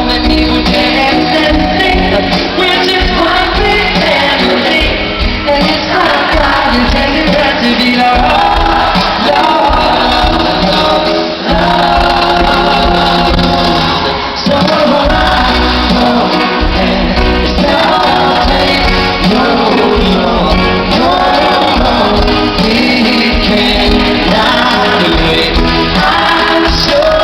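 Live pop band playing with singing.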